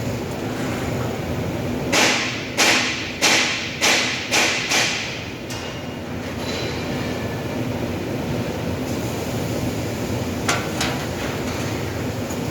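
Six sharp hammer blows on sheet metal in quick succession, about two a second, each ringing briefly, over a steady workshop hum.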